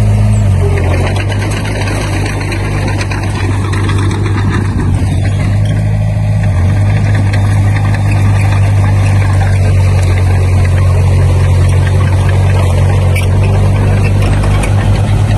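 Heavy construction machine's diesel engine running steadily and loud, its low engine note stepping slightly in pitch about half a second in and again around six and a half seconds, with a rhythmic pulsing near the end.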